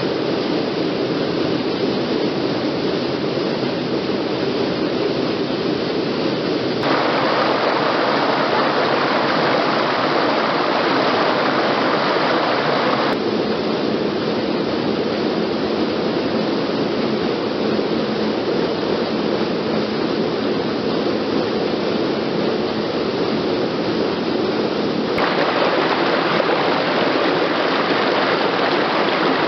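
Waterfall rushing: a loud, steady roar of falling water. Its tone shifts abruptly three times, as between separate takes.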